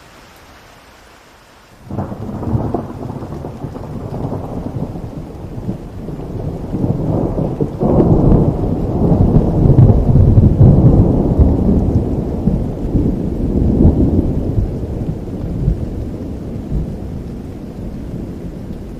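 Heavy rain falling in a forest with a thunderclap: a sharp crack about two seconds in, then a long low rumble that peaks around the middle and slowly dies away.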